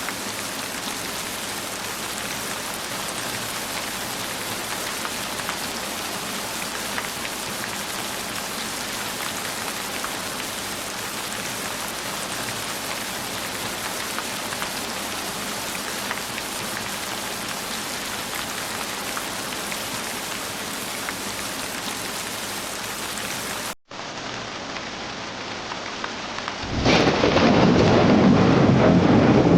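Steady heavy rain falling. About 24 seconds in it cuts out for an instant and resumes as a duller rain recording, and a few seconds later a loud, deep rumble of thunder swells in.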